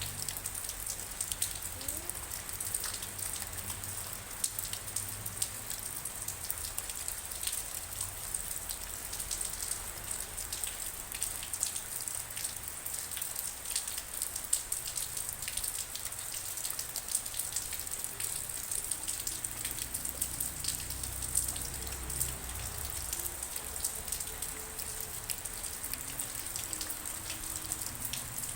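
Steady rainfall, an even hiss with many individual drops ticking on a surface.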